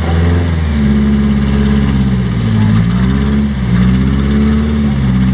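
Off-road rock crawler's engine running under load, its pitch dipping and rising again several times as the throttle is worked.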